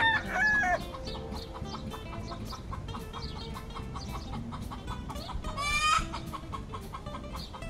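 Chicken clucking sound effect, once at the start and again about six seconds in, over background music with a steady beat.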